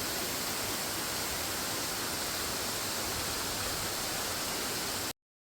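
Small waterfall splashing over rocks: a steady hiss of falling water that cuts off suddenly near the end.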